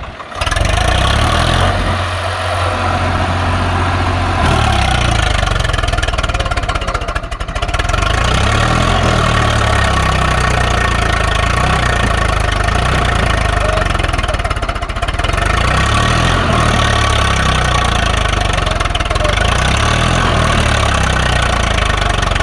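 Swaraj 744 FE tractor's three-cylinder diesel engine running loud and steady under load as it hauls a trolley through mud where it is getting stuck. The sound starts abruptly about half a second in, and the engine note dips briefly twice.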